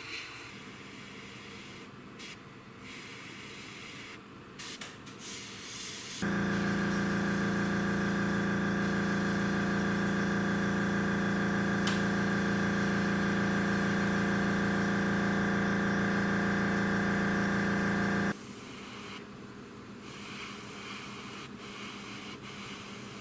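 Airbrush spraying paint, its air hiss breaking off briefly a few times as the trigger is released. About six seconds in the air compressor switches on with a loud steady hum, runs for about twelve seconds and cuts off, leaving the airbrush hiss again.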